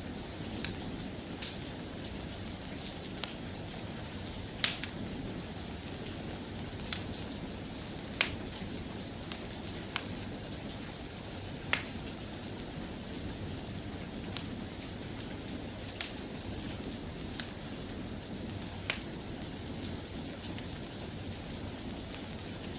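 Steady soft rain, an even hiss, with scattered sharp ticks and clicks every second or two, a few louder than the rest.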